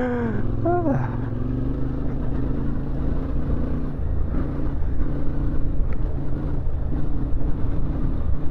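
Motorcycle engine running at a steady speed, with a low, even rumble beneath it.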